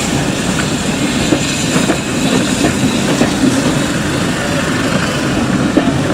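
Heritage railway train running along the track: a steady rumble of wheels on rail with scattered clicks.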